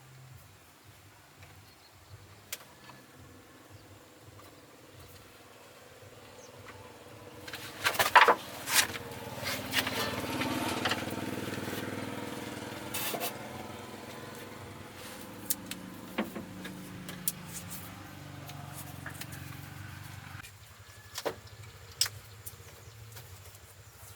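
A motor engine running steadily, growing louder for several seconds near the middle and then easing off, with scattered sharp metallic knocks and clicks. The engine sound cuts off suddenly near the end.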